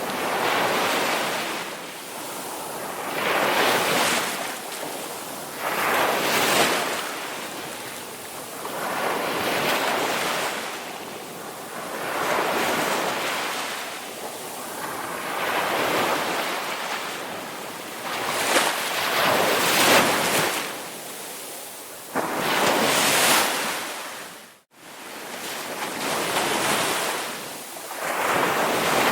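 Ocean surf: waves breaking and washing in and out one after another, each swell of rushing hiss rising and falling over about three seconds. There is a brief sudden dropout about 25 s in.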